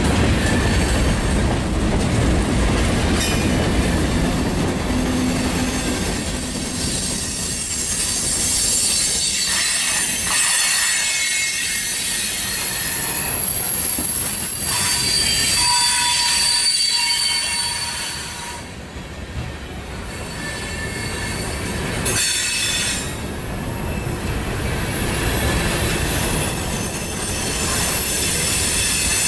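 Freight cars rolling past at trackside: steel wheels rumbling on the rails, with thin high wheel squeals that come and go. The sound dips briefly about two-thirds through.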